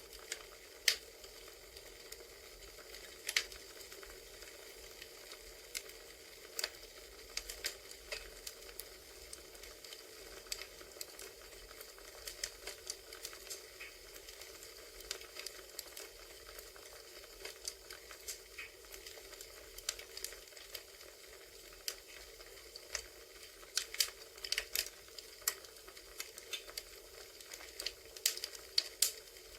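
Crackling campfire ambience: a steady soft hiss with irregular sharp pops and snaps of burning wood, a few bunched together near the end.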